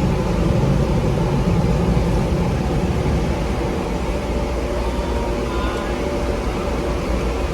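Automatic car wash machinery running, heard from inside the car: a loud, steady noise with a low hum.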